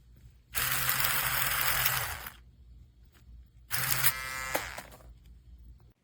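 TPOB Mini Skull electric shaver running in two bursts: a steady motor buzz with a rasp over it for nearly two seconds, then again for about a second.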